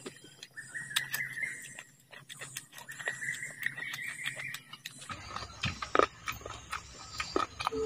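Close-up eating sounds of rice and mutton curry eaten by hand: wet chewing and lip smacking with many short sticky clicks, the sharpest smack about six seconds in. A steady high tone comes and goes in the first five seconds.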